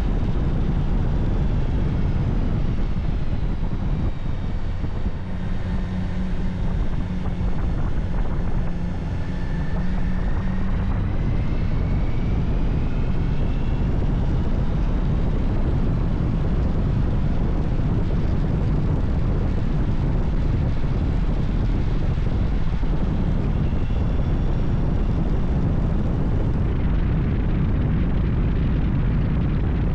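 Motorcycle engine running at road speed under heavy wind noise, its note gliding up and down a few times in the first half.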